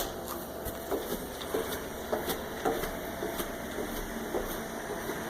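A sharp click, then a series of light, irregular knocks and ticks.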